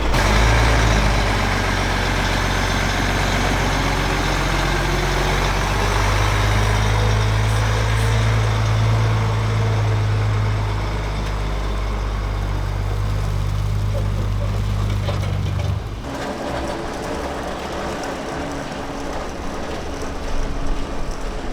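Large truck's diesel engine idling steadily, with a deep even hum, then stopping abruptly about sixteen seconds in.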